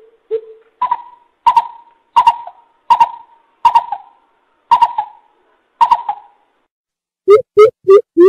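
Coucal (bubut) giving a series of hollow hooting notes: two low notes at the start, then about seven higher, evenly spaced hoots, breaking near the end into a faster run of deeper notes.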